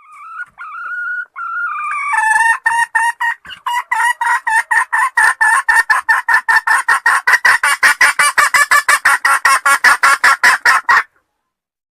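Junglefowl lure call: a drawn-out wavering note for about two seconds, then a fast run of sharp clucks, about five a second, that stops abruptly near the end.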